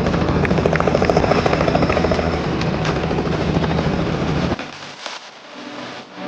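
Helicopter rotor and engine running, with a fast, even pulsing beat from the blades. The sound cuts off suddenly about four and a half seconds in, leaving a much quieter stretch.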